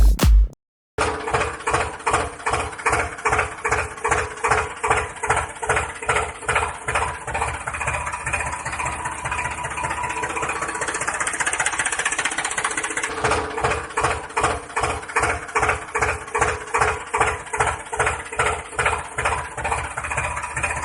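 Tractor engine sound chugging in slow, even pulses of about two to three a second, running smoother and faster for a few seconds midway before the pulsing returns.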